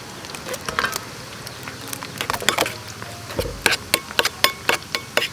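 A series of sharp taps or clicks, a few scattered at first, then coming evenly at about four a second near the end.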